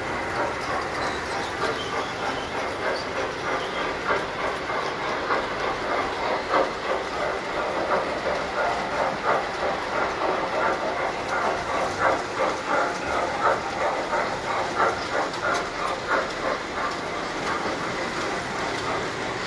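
Tinplate model trains running: a steady whir of motors and wheels on metal track, with repeated clicking of the wheels over rail joints.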